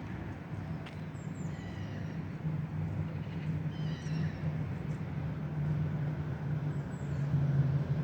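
A steady low hum, like a motor running, with short high bird chirps now and then over it.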